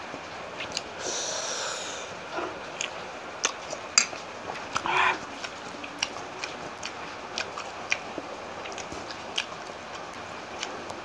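Close-miked chewing of a mouthful of food, with many small wet clicks and smacks from the mouth. Two loud breaths break through, one about a second in and a shorter one about five seconds in, the sound of someone breathing hard through a chili-hot mouthful.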